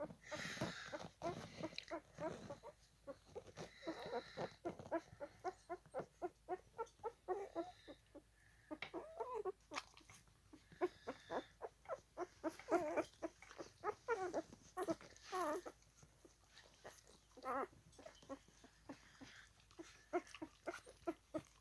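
Newborn Alaskan husky puppy, four days old, squeaking and whimpering in quick runs of short, wavering high-pitched calls as it crawls.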